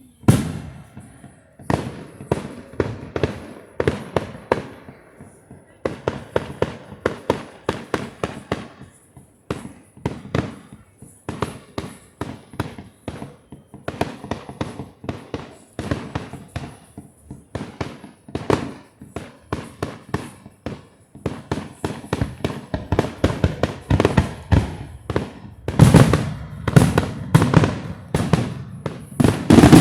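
Fireworks going off: rapid strings of sharp bangs one after another, growing denser and louder over the last several seconds.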